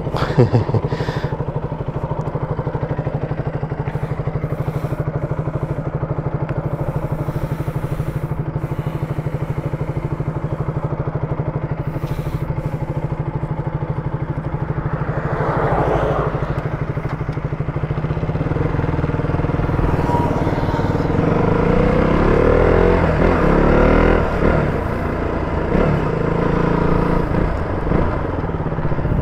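KTM Duke 200's single-cylinder engine running at a steady pitch, then rising and falling in pitch in the second half as the motorcycle rides on.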